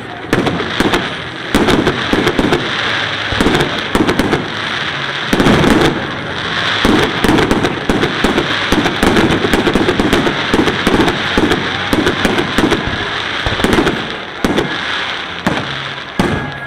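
Fireworks display: a dense, continuous barrage of booming bursts and crackling shells going off in quick succession, easing off near the end.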